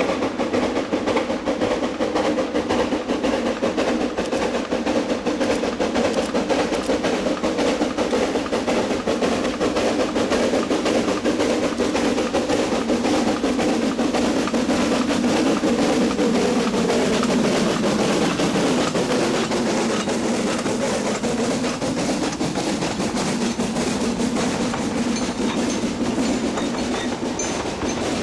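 Narrow-gauge steam-hauled coal train running on the rails: a steady clatter of wheels and wagons.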